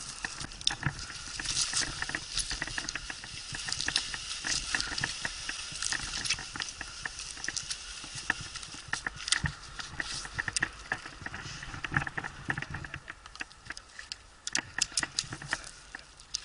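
Irregular rustling with many sharp clicks and knocks, the sound of handling at close range, such as climbing gear, rope and bark or branches.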